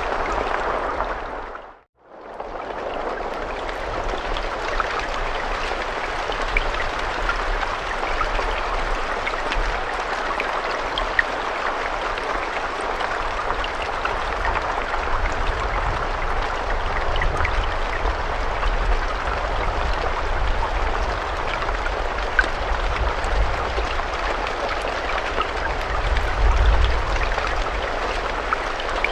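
Steady rain falling, a dense hiss with scattered individual drops ticking through it and a low rumble underneath that swells near the end. About two seconds in, the rain fades out to a moment of silence and comes straight back in.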